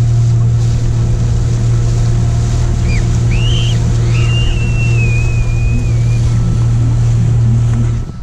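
Motorboat engine running at a steady hum, with some water noise. The sound cuts off abruptly at the very end.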